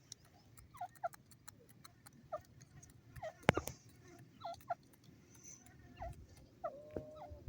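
Grey francolin giving soft, short calls, each a quick downward-bending note, repeated irregularly, with a slightly longer held note near the end. Sharp clicks are scattered among them, the loudest about three and a half seconds in.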